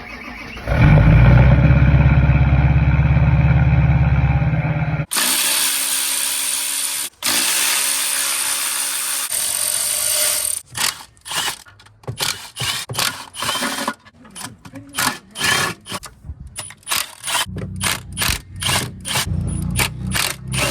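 Workshop machinery and power tools: a loud, steady low hum for about four seconds that stops suddenly, then several seconds of even hiss, then a long run of short, rapid bursts like a power tool being triggered.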